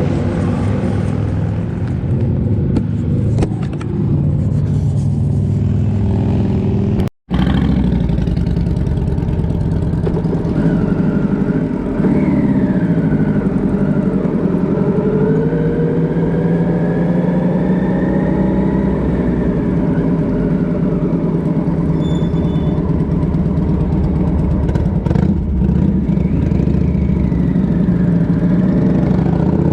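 Motorcycle engine running at speed with wind rush, its pitch rising and falling several times with the throttle. The sound cuts out completely for an instant about seven seconds in.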